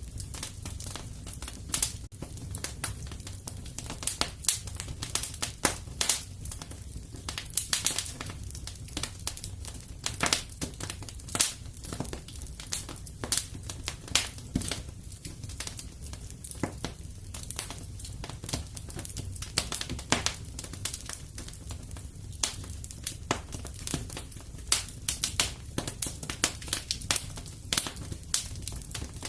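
Wood fire in a fireplace crackling, with irregular sharp pops, a few a second, over a low steady rumble.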